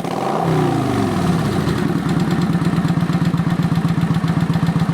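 Kawasaki Vulcan 900 Classic V-twin engine running. The revs fall over the first second or so, then it settles into a steady, evenly pulsing idle.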